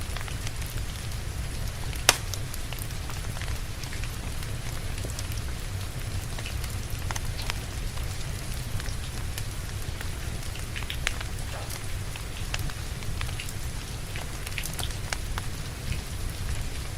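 Steady rain mixed with a fireplace crackling: an even rain hiss over a low rumble, with scattered small pops from the burning logs and one louder pop about two seconds in.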